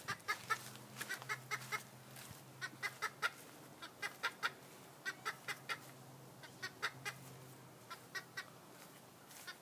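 Chickens clucking: many short, irregular clucks in small clusters, some a few at a time in quick succession.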